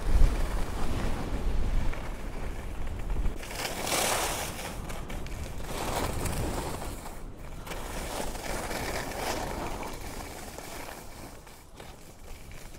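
Skis sliding and scraping on snow in a run of turns, each turn a surge of hiss, with wind buffeting the microphone.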